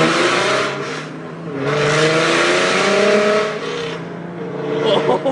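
A 2012 Mustang's 3.7 L V6, running Borla XR-1 long-tube headers, an off-road X-pipe and an ATAK cat-back with no catalytic converters, accelerating hard with its pitch climbing. The sound drops briefly about a second in, climbs again in a second pull, then falls away as the throttle eases near the end.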